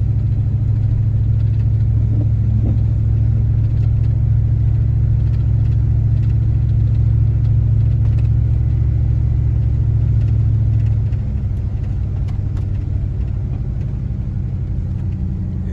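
Vehicle driving, heard from inside the cabin: a steady low engine and road rumble that eases off and drops in level about eleven seconds in.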